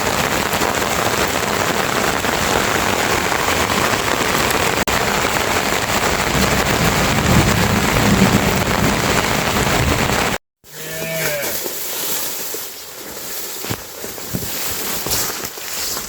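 Heavy rain pouring steadily and close, with cattle lowing under it for about three seconds, starting about six seconds in. After a sudden cut about ten seconds in the rain is much quieter and one short call is heard.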